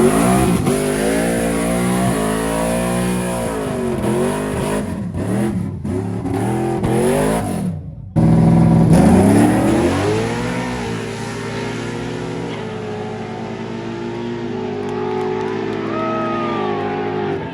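Street-race car engines revving up and down again and again; after a sudden break about eight seconds in, the engines come in at full throttle, climb in pitch, and then run on at a steadier note that slowly fades.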